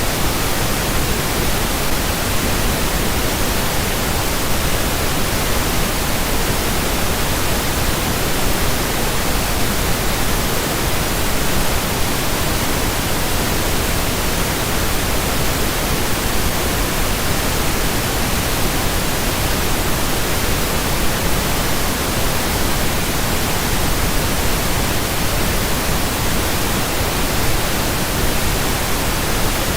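Steady, unchanging pink noise: an even hiss spread across all pitches with no breaks or changes.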